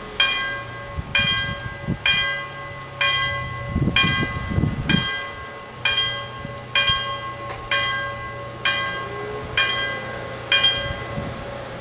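A single bell struck about once a second, the same pitch each time, every stroke ringing on and fading before the next; the strokes stop near the end.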